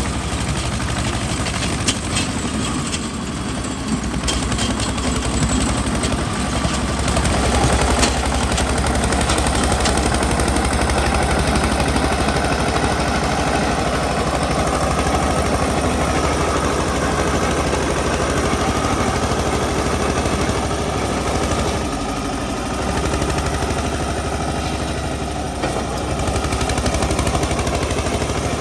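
Eicher 242 tractor's diesel engine running steadily with a rapid chugging beat, getting louder about eight seconds in; a few sharp clicks sound in the first few seconds.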